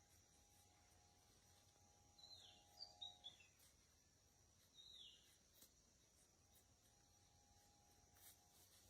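Quiet outdoor ambience with a bird giving a few short, faint downward chirps, a quick cluster about two to three seconds in and one more near five seconds, over a faint steady high hiss.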